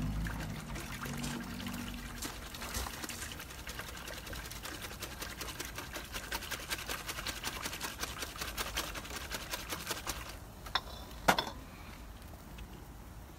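Food frying on a hot cooking surface: dense, irregular sizzling and crackling that thins out after about ten seconds. Two sharp knocks follow shortly after, the second one loud.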